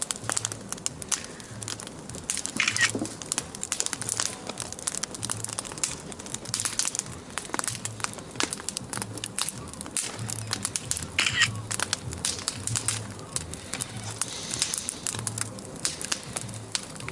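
Large wood bonfire crackling, a dense run of sharp, irregular pops and snaps, over a series of low, dull thuds at an even pace of about one every two-thirds of a second.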